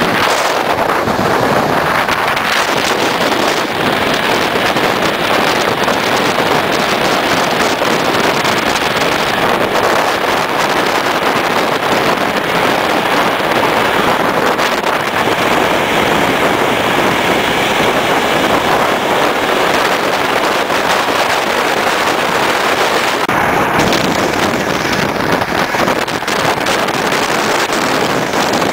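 Passenger train running at speed, heard from an open carriage window: a loud, steady rush of wheel and rail noise mixed with wind buffeting the microphone.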